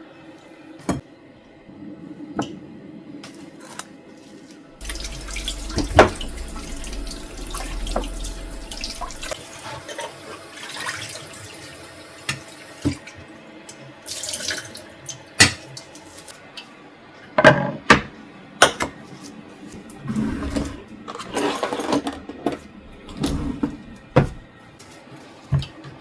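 A tap runs into a sink for about five seconds, followed by a series of sharp knocks and clatter of kitchen items being handled.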